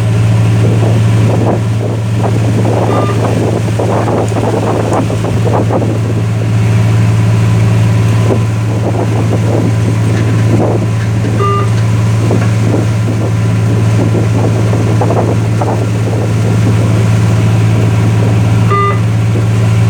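Fishing boat's engine running with a steady low drone, with wind and water rushing over it. A short high beep sounds three times, about eight seconds apart.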